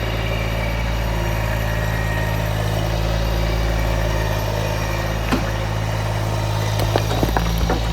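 Small tractor's engine running steadily, with a few short knocks about five seconds in and again near the end.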